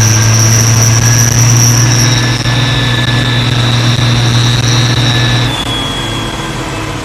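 New Holland T6030 tractor's turbocharged diesel engine running at raised revs with a high, steady turbo whistle over the engine hum. About five and a half seconds in the revs drop and the whistle falls to a lower pitch.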